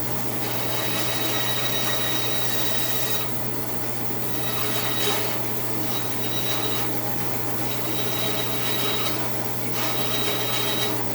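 2002 Central Machinery 14-inch bandsaw running with a steady motor hum while its blade cuts wood. There are four separate cuts, each with a high thin whine over the rasp of the blade in the wood, and short breaks between them.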